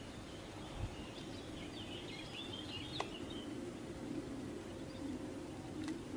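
Small birds chirping in a quick flurry for a couple of seconds, over steady low background noise, with a single faint click midway.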